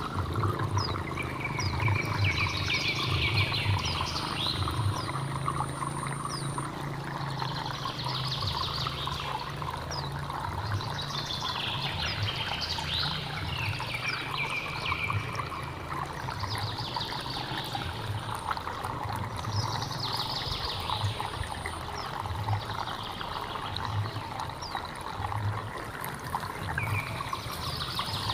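Hill stream flowing steadily with a low rumble, while a bird sings short phrases every few seconds.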